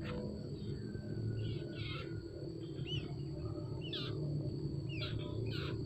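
Bird chirping: short, quick downward chirps, several in a row, over a steady low hum.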